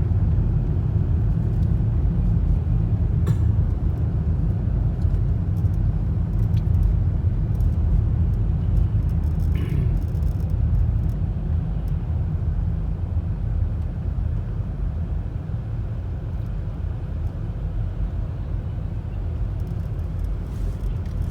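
A loud, steady low rumble that holds without pause, with a few faint clicks.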